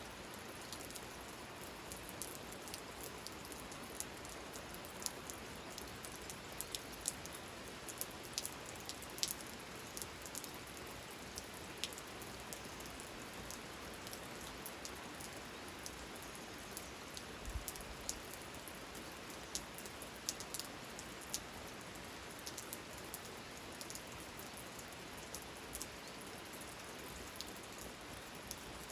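Steady rain with many separate raindrops tapping sharply close by.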